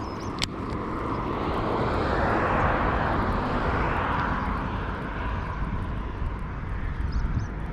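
A passing vehicle: a rushing sound that swells to its loudest about two to three seconds in and then slowly fades, over a steady low rumble.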